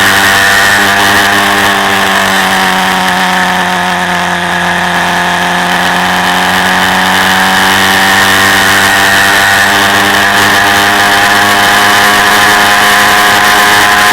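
Quad bike engine running steadily, heard from on board. It eases off slightly about four seconds in, then picks back up.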